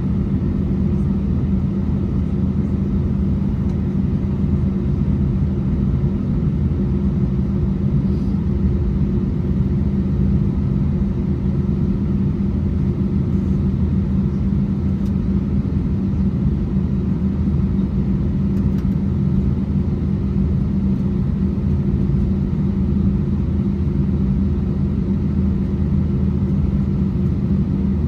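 Steady low drone inside the cabin of an Airbus A320 holding on the runway, from its IAE V2500 engines at idle and the cabin air system, with a few low tones held unchanged throughout.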